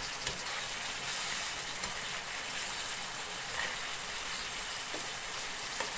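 Marinated boneless chicken pieces sizzling steadily in hot oil in a frying pan, with a few light taps and scrapes of a spoon as the pieces are turned.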